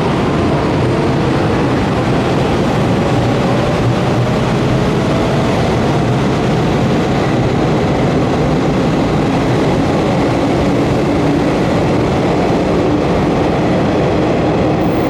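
Electric commuter train's traction motors whining, rising slowly in pitch as the train gathers speed away from the platform, over loud, steady running noise.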